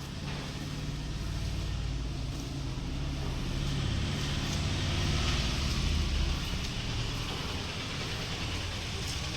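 An engine running with a low, steady rumble and hiss, swelling to its loudest about five to six seconds in.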